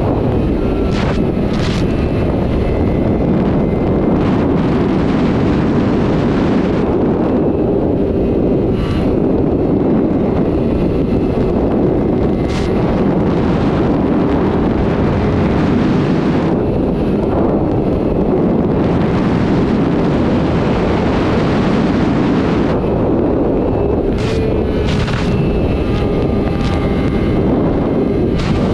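Sport motorcycle running at speed, its engine under heavy wind noise on the microphone, with the note swelling in a few stretches.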